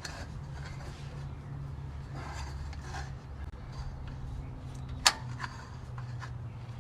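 Quiet handling noises as a new oil filter is screwed on and tightened by hand, with one sharp click about five seconds in, over a steady low hum.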